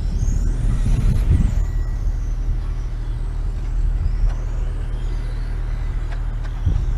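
Racing motorcycles heard from a distance, their engine whine rising and falling in pitch as they pass, over a steady low rumble.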